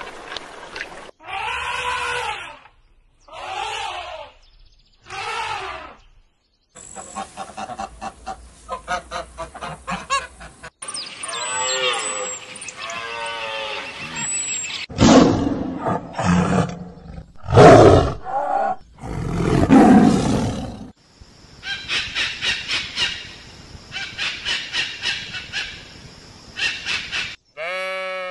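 A string of different animal calls played one after another with short gaps: pitched cries, a run of rapid chirps or clicks, and, loudest of all about halfway through, several deep roars.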